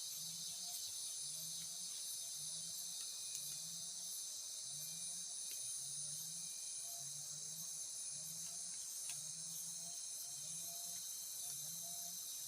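Steady high-pitched chorus of forest insects, crickets or cicadas, shrilling without a break. Under it a low call repeats about one and a half times a second.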